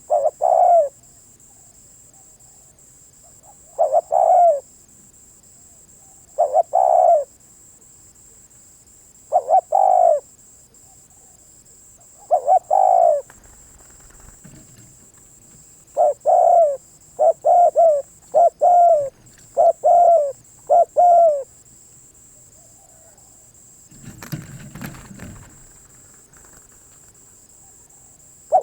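Spotted dove cooing: single coos every three or four seconds, then a faster run of short coos about halfway through. A brief rustle follows a few seconds before the last coo.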